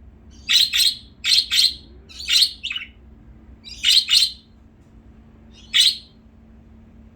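A pet bird giving short, loud, harsh calls, mostly in pairs: four pairs, then a single call about six seconds in.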